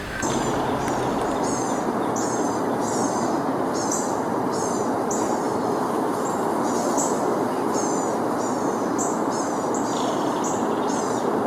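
A small bird calling over and over, short high falling chirps about twice a second, over a louder steady rushing noise.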